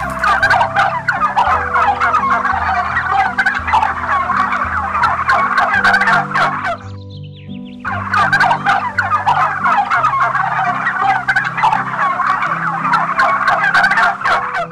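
Domestic turkey gobbling, a fast rattling call in two long runs broken by a short pause about seven seconds in.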